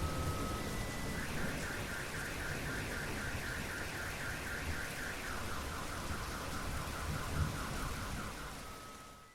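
Steady rain with a car alarm sounding through it, cycling its tones: a steady tone at first, then a fast warble of about five pulses a second that drops lower about halfway through, then a steady tone again before everything fades near the end.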